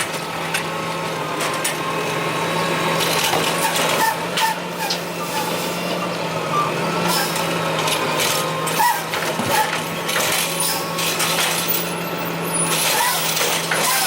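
Curbtender automated side-loading garbage truck running, its engine humming steadily, with scattered knocks and clanks and air hissing.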